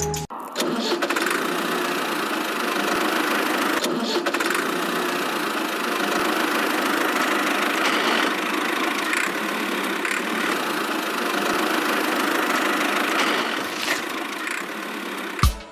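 A small motor running steadily, with an even mechanical whirr and no deep bass, starting abruptly just after the start and cutting off shortly before the end.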